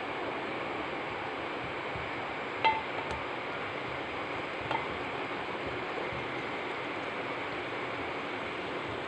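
Yogurt and onion masala frying with a steady sizzle in an aluminium pot as it is stirred with a spatula, with a short clink against the pot about two and a half seconds in.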